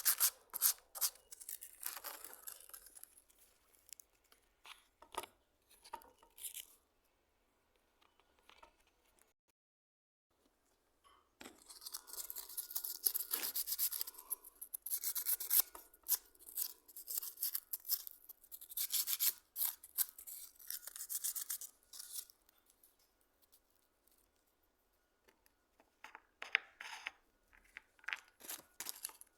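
Hand rubbing and scrubbing strokes on a hand plane under restoration, in irregular bursts of scratchy strokes broken by two short pauses.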